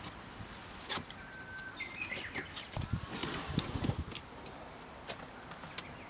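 A bird calls briefly about two seconds in, among scattered light clicks and knocks.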